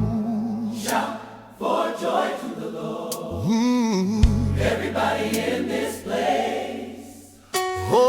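Gospel worship music: a choir sings wordless lines with wavering vibrato over long, sustained bass notes. The music thins out briefly, then swells back in near the end.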